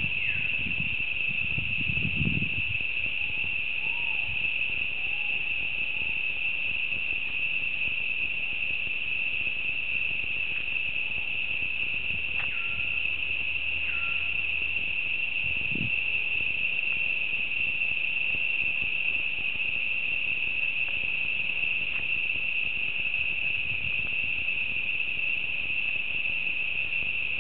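Cicadas droning in chorus: one continuous, steady, high-pitched buzz that never breaks.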